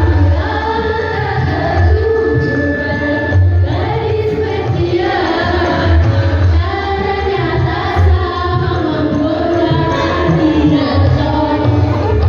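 A school choir singing a song, with sustained sung notes over an accompaniment with a strong bass.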